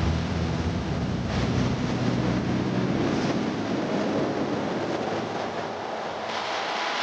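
Steady rushing noise of falling water from a waterfall, with wind on the microphone.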